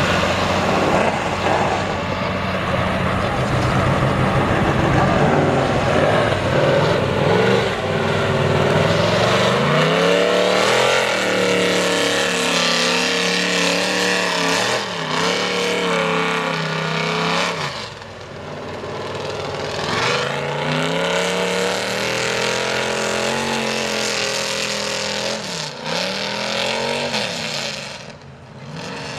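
Mega truck engine revving hard through a mud bog, its pitch climbing and falling again and again, briefly dropping off twice, past the middle and near the end.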